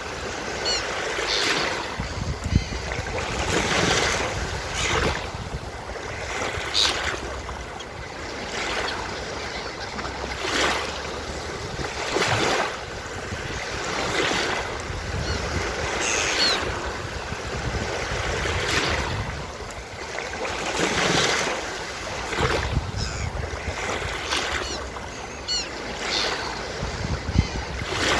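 Surf breaking on a beach, waves washing in and drawing back in repeated surges every few seconds. Gulls call briefly a few times above the surf.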